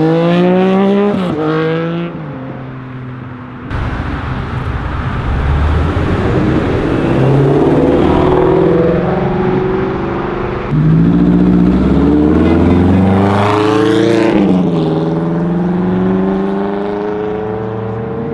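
Muscle car engines revving hard as cars accelerate away. One climbs in pitch at the start and drops back as it shifts up. A loud rumble of engines follows, then another car climbs sharply in pitch, shifts near the end and runs on at a steadier pitch.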